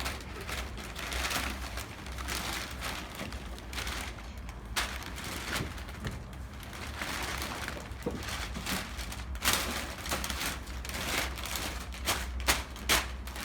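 Packaging and parts being handled during an unboxing: rustling and crinkling with irregular clicks and knocks, a few sharper knocks near the end, over a low steady hum.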